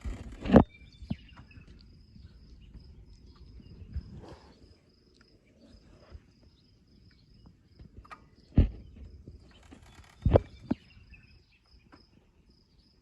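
A cricket chirping steadily, a high short chirp repeating two or three times a second. A few loud thumps cut in: one about half a second in, then three more near 8.5 and 10.5 seconds.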